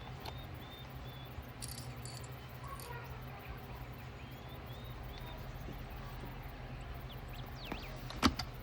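Faint bird chirps over a steady low hum, with one sharp click near the end.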